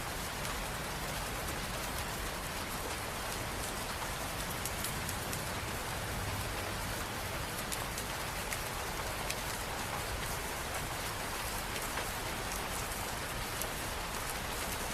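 Steady rain falling on hard surfaces, a constant hiss with many individual drops pattering throughout.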